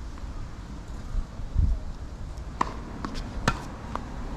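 Tennis ball impacts on a hard court: about four sharp pops in the second half, the loudest near the end, over low wind noise on the microphone.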